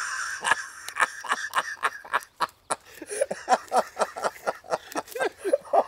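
Duct tape being pulled off the roll: a steady screech for about two seconds, then a quick run of crackles as more tape comes off in short pulls.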